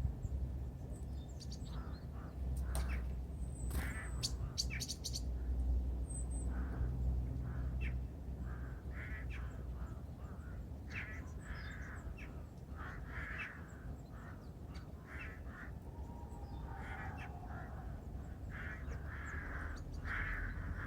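Wild birds calling: short, rough calls repeated many times, coming thicker from the middle onward. A few thin high chirps and clicks come early, over a steady low rumble.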